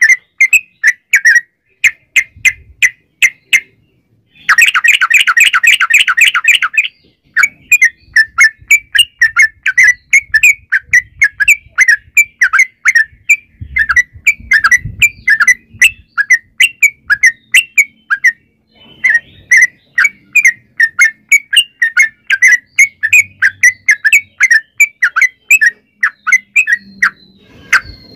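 Yellow-vented bulbul calling without pause: a fast series of short, sharp chirping notes, a few each second. About five seconds in comes a denser, louder run of rolling notes.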